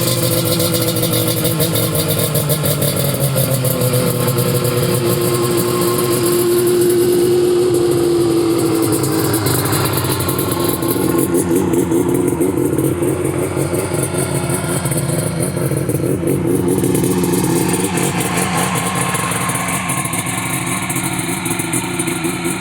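Suzuki GT380's three-cylinder two-stroke engine running. Its pitch falls over the first few seconds, then holds fairly steady with small rises and dips. The seller describes the engine as running perfectly with no odd noises.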